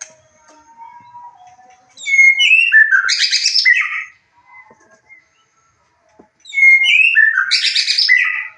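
White-rumped shama singing two loud song phrases about four seconds apart. Each phrase opens with a few clear whistled notes and runs into a fast, dense burst of chattering notes.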